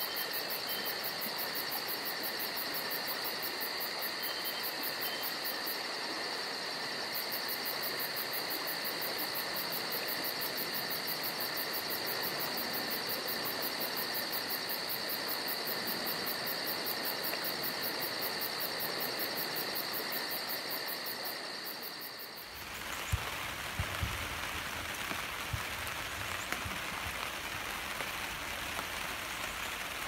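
A steady chorus of insects trilling, like crickets, for about the first twenty-two seconds. It then gives way abruptly to rain falling on a surface, with heavier drops knocking now and then.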